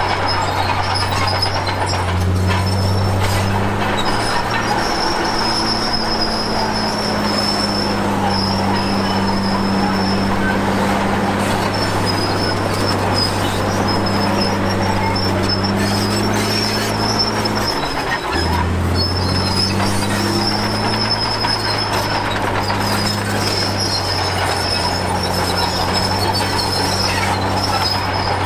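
Komatsu D53P crawler bulldozer's diesel engine running steadily under load, with a continuous high squeal from its steel tracks. The engine note breaks briefly and shifts about two-thirds of the way through.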